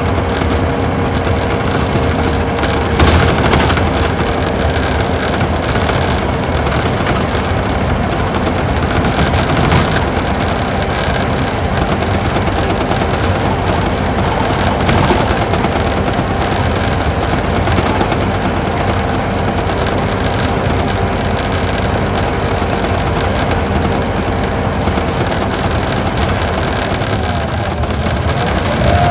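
Isuzu Gala coach's V-type engine running under way, heard from inside the bus over steady road and tyre noise. A steady drone slowly sinks in pitch, then changes near the end as the engine note jumps to a new pitch.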